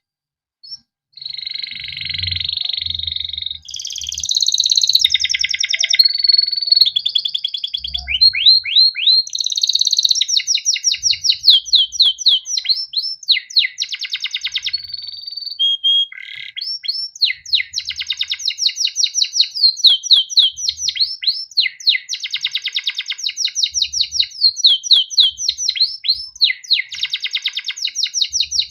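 Male domestic canary singing a long, continuous song of rapid rolling trills and runs of quick down-slurred chirps, high-pitched, starting about a second in.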